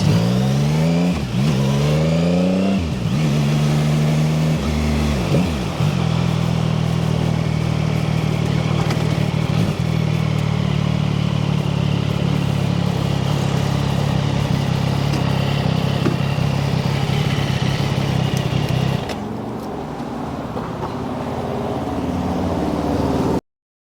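CFMoto 675SS sport bike's inline three-cylinder engine under way: revs climbing through a couple of gear changes in the first few seconds, then holding steady at cruising speed. Near the end it drops away to a lower, quieter note, and then it cuts off suddenly.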